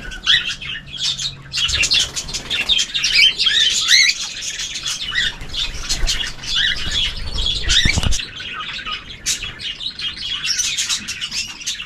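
Mixed aviary birds (budgies, canaries and cockatiels) chirping and chattering, many short overlapping calls at once, with a short low thump about eight seconds in.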